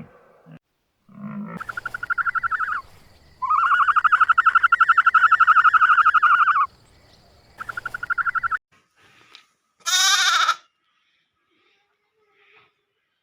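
Bleating from a young goat or sheep: four high, trembling bleats, the second one long at about three seconds and the last one falling in pitch.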